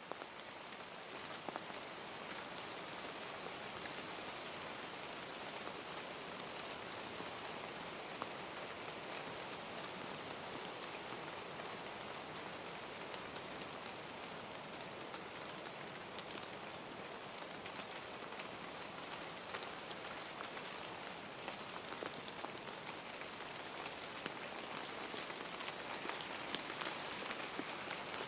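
Steady rain, with scattered single drops ticking on a surface.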